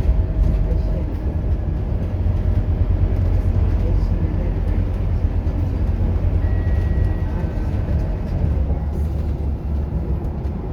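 Scania K230UB bus's five-cylinder diesel engine running, a steady low drone. A short falling two-note tone sounds about six to seven seconds in.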